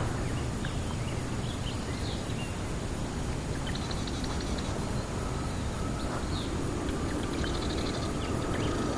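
Outdoor ambience of small birds chirping over a steady low rumble, with a rapid trilled call twice, about four seconds in and near the end.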